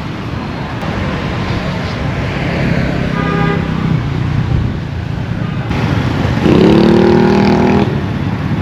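Street traffic with vehicles going by and horns sounding: a short high toot about three seconds in, then a louder, lower horn held for over a second near the end.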